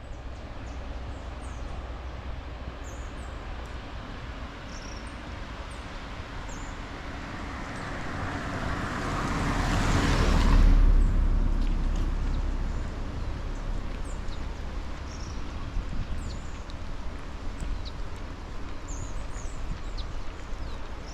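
A car passing by: its engine and tyre noise swells to a peak about halfway through, then fades away. Under it is a steady outdoor background with scattered short, high chirps.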